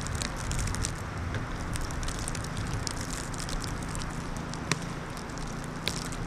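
Wind buffeting the microphone in a snowstorm, a steady low rumble with many scattered sharp crackles through it.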